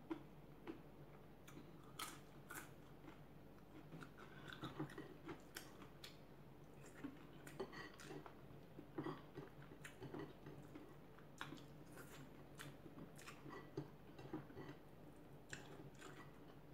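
Faint close chewing with scattered small clicks and crunches, and fingers picking food off a plate.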